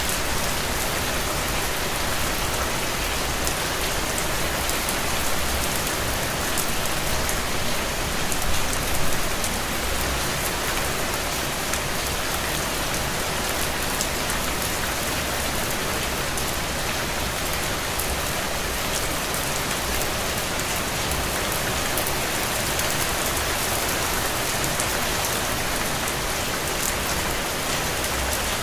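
Steady rain falling on a window: an even hiss of rainfall with many small drops ticking, swelling slightly about eight or nine seconds in.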